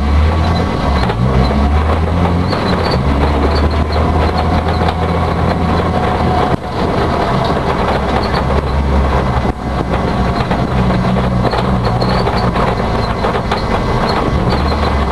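Rally car engine heard from inside the cabin, running under load with its note rising and falling through the revs. The sound dips briefly twice around the middle.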